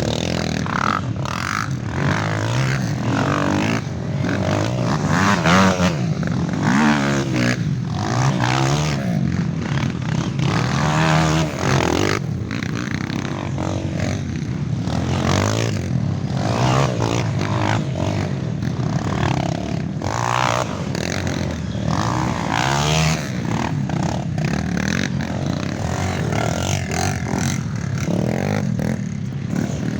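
Several off-road trail motorcycles revving as they ride past one after another. Their engine notes overlap, rising and falling as each rider opens and closes the throttle.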